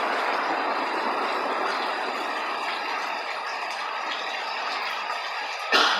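Torrential rain driven by strong wind, a steady rushing roar, with one sharp knock near the end.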